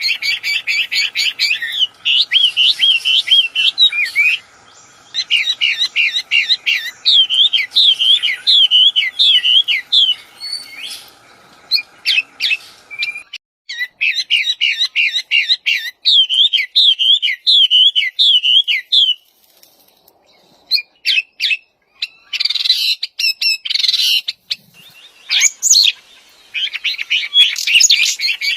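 A wambi songbird singing in the wild: long runs of fast, repeated chattering notes and swooping whistled phrases in bursts, broken by short pauses, with a few sharp separate calls about two-thirds of the way through.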